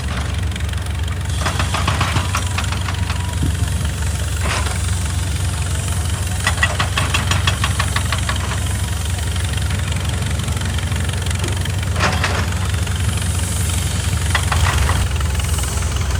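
Excavator's diesel engine running steadily, with several short bursts of rapid rattling clatter over it.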